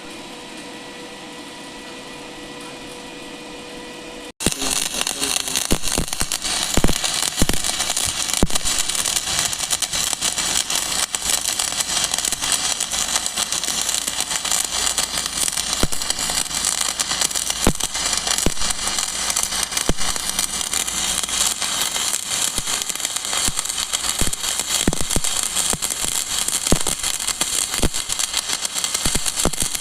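Stick (arc) welding: the electrode's arc crackles and spits continuously with scattered sharp pops, striking suddenly about four seconds in after a steady hum.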